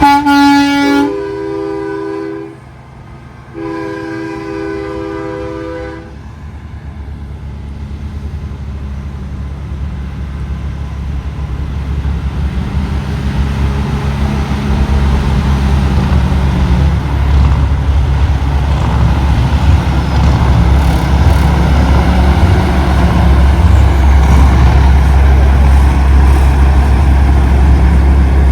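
Big-rig air horns sounding a multi-note chord in long blasts through the first six seconds, with a short break between the last two. Then the low rumble of heavy diesel truck engines, growing steadily louder as the rigs roll past.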